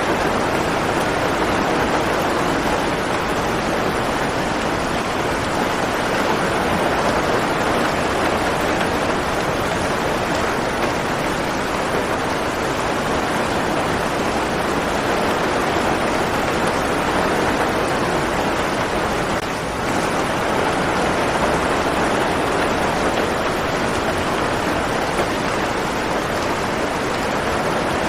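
Steady heavy rain, an even dense hiss of falling drops with no separate patters standing out.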